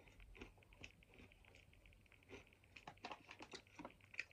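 Faint close-up chewing of sweet potato crisps: irregular soft crunching clicks, coming thickest about three seconds in.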